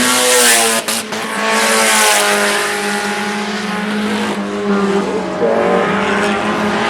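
IMCA Sport Compact race cars, four-cylinder compacts, running at speed in a race, their engines held at high revs. The pitch bends slightly as cars pass, with a loud hiss of a car going by close in the first two seconds.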